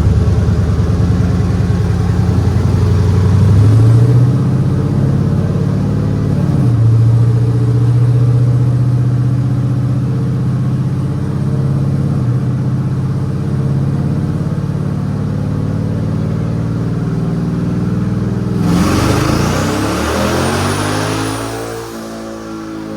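Modified GMC Sierra 5.3 L V8 pickup running on headers, its pitch rising and falling with the throttle. Near the end it revs up and a hissing rush with a high whistle joins in briefly.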